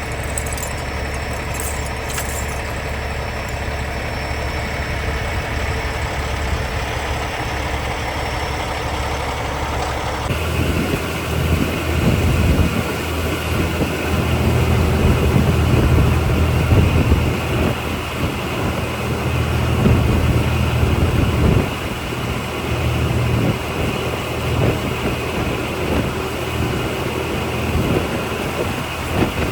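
Logging truck's diesel engine running steadily. About ten seconds in, the sound changes abruptly to a louder, uneven low rumble.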